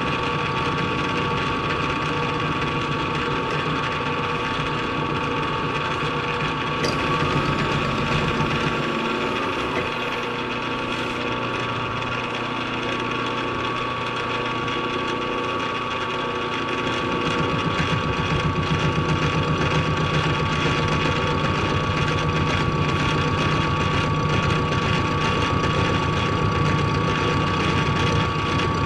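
Machine tool motor running steadily through a cut in metal, with a steady whine; its lower hum drops away for several seconds partway through, then comes back.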